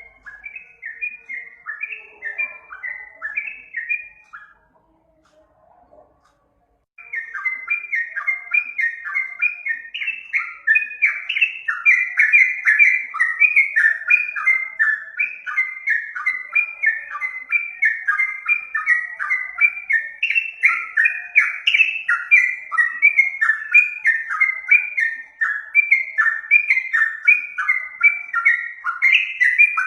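Yellow-vented bulbul (trucukan) singing: a fast, chattering run of repeated notes. It breaks off about four seconds in and resumes about three seconds later, then continues without pause.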